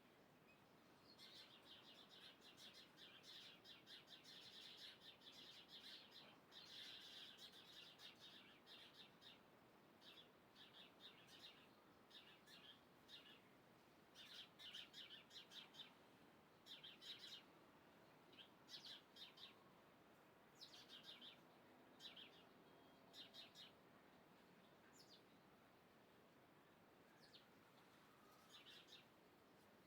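Faint birds chirping: quick high chirps in short bursts, busiest for the first twenty seconds or so, then sparser.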